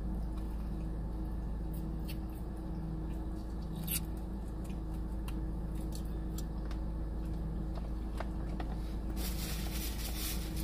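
Close-up eating sounds: chewing and biting into fried ranch chicken wings, with small wet clicks and a short stretch of crackly noise near the end, over a steady low hum.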